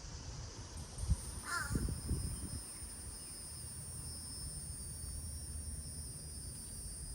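Outdoor backyard ambience: insects trill steadily and high-pitched throughout, with a short wavering bird call about a second and a half in. Under it runs a low rumble, with a few dull thumps in the first few seconds.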